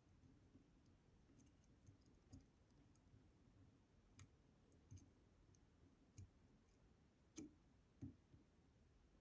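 Faint, scattered clicks of a disc detainer pick turning the discs of a DOM Diamant disc detainer lock under tension, as the discs are set one by one. The clearest clicks come in the second half.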